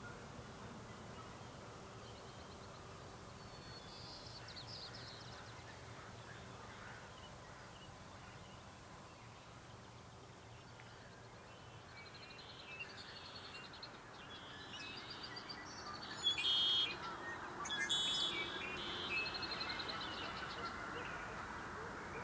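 Outdoor morning birdsong over a faint steady background hush. There are a few faint high calls about four seconds in, then more birds join in over the second half, with the loudest phrases of song and chirps a few seconds before the end.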